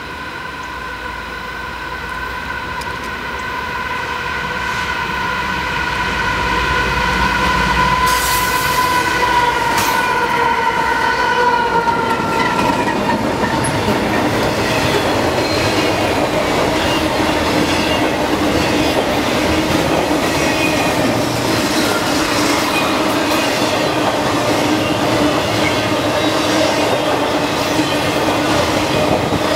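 A train passing close by. A steady high tone is held for about the first twelve seconds and dips slightly in pitch as it goes by, then the rolling rumble and clatter of the train continue.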